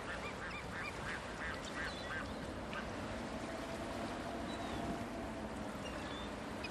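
A bird calling a quick run of short, yelping notes over the first two seconds or so, then a steady hiss of wind and open-air ambience.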